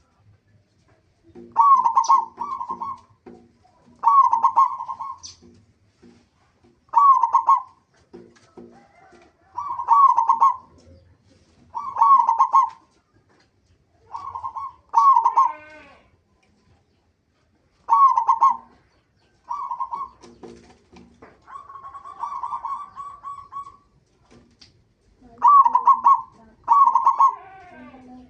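Zebra dove (local perkutut) singing: short rolling cooing phrases repeated about every two to three seconds. It is a lure song meant to set other perkutut calling.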